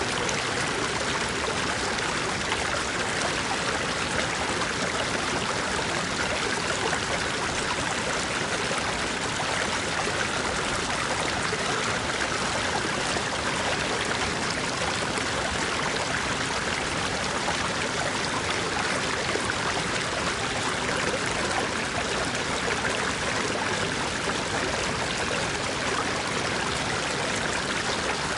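A small stream flowing over rocks, a steady babbling and splashing of water that holds an even level throughout.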